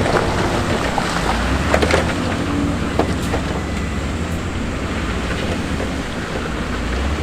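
Heavy diesel construction machinery running with a steady low rumble, with a few sharp knocks of moving stone in the first three seconds.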